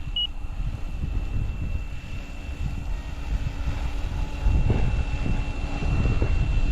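SAB Goblin Fireball electric RC helicopter flying, its motor and rotor giving a steady high whine, under heavy wind buffeting on the microphone.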